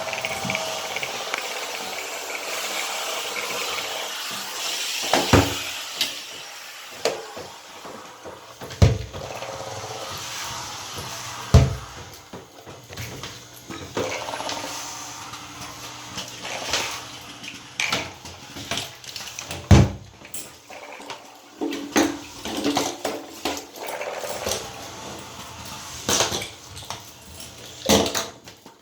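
Bissell steam cleaner hissing as it is worked over a bathtub, strongest in the first few seconds. Scrubbing and a series of sharp knocks of the tool against the tub run through it.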